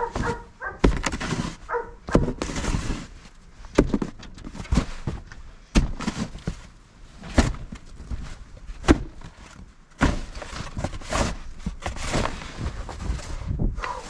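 Snow shovel scraping and knocking in deep snow, with sharp knocks roughly once a second between noisy scrapes. About ten seconds in, the scraping becomes louder and more continuous.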